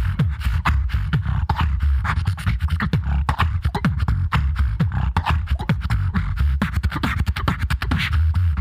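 Solo beatboxing through a PA: a fast, dense run of vocal snare and hi-hat clicks over a heavy, sustained bass hum, at a steady groove.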